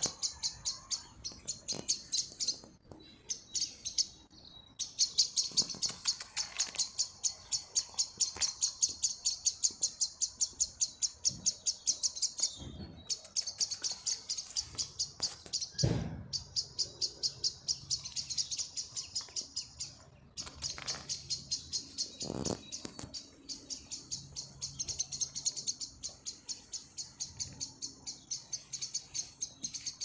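A bird chirping over and over in a fast, even run of high notes, about four a second, broken by a few short pauses. A soft thump about halfway through, and another a few seconds later.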